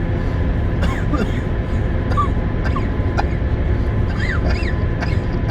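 Birds chirping in short rising-and-falling calls, about one a second, over a steady low rumble.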